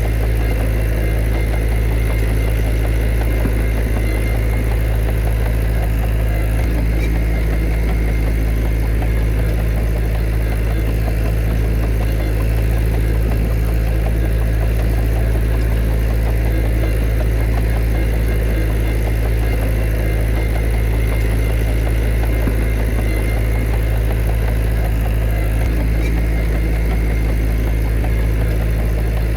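Heavy diesel engine of earthmoving machinery running steadily, with a strong low hum and no revving or pauses.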